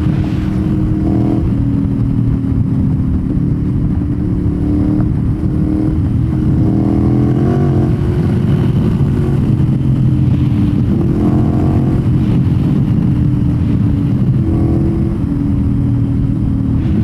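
Ducati Monster's L-twin engine with a Termignoni exhaust running under way, heard from the rider's seat, its note rising and dropping a few times with throttle and gear changes.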